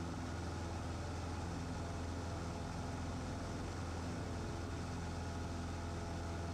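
Cessna 150's four-cylinder Continental O-200 engine running steadily in flight, a low, even drone heard from the cockpit.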